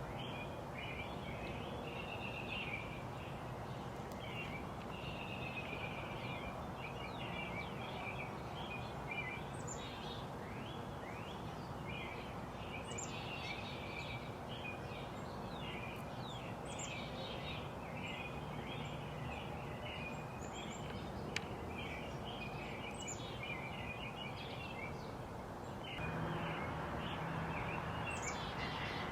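Several small birds chirping and twittering in quick, overlapping calls throughout, over a steady background hiss of outdoor noise that gets a little louder near the end.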